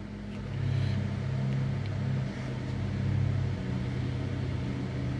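A steady low mechanical hum from a running machine, growing a little louder about half a second in.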